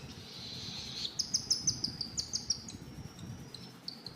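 Baby cockatiel's food-begging calls while being hand-fed: a raspy hiss for about the first second, then rapid high chirps repeated about four or five times a second.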